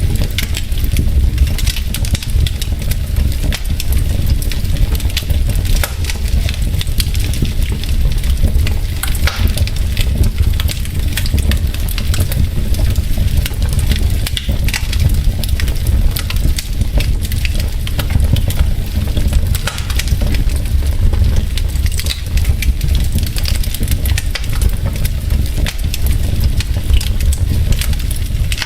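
Wood fire in a fireplace, with logs crackling and popping in irregular sharp snaps over a steady low rumble.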